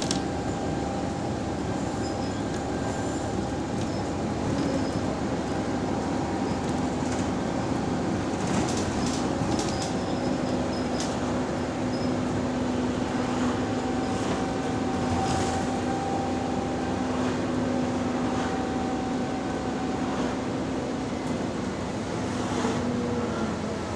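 A bus engine runs under way, heard from inside the bus as a steady drone with a hum and a few short rattles. The bus has an exhaust leak.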